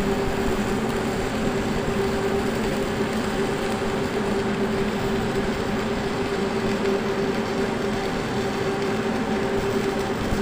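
Welding equipment at work on steam pipe: a steady hum under an even, crackling hiss that holds unchanged throughout.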